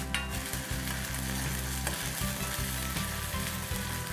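Chopped onion and ginger-garlic paste sizzling steadily in hot oil in an iron kadhai, with a metal spoon stirring and scraping through it.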